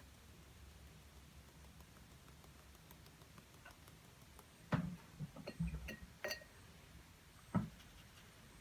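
Light taps and clicks from painting tools being handled: a quick cluster about five seconds in and a single knock near the end, over a low steady hum.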